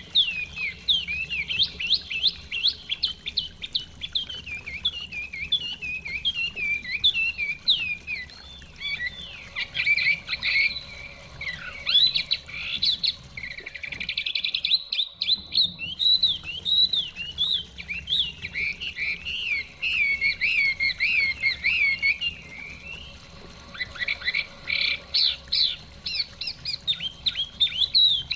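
Chinese hwamei singing a long, rapid run of varied whistled phrases, breaking off briefly about halfway.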